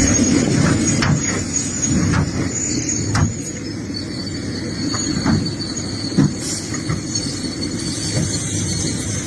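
Excavator digging in rocky soil: the engine runs with a steady low rumble, under a thin high-pitched squeal and scattered sharp knocks of metal on rock.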